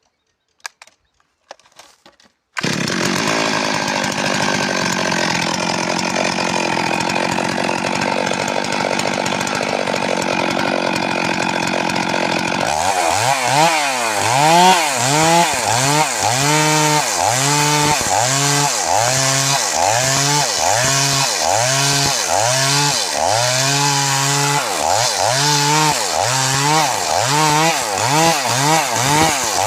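Stihl MS 382 two-stroke chainsaw running at high speed. It comes in suddenly about two and a half seconds in after a few faint clicks, runs steadily, then from about halfway through its engine pitch dips and rises again roughly once a second.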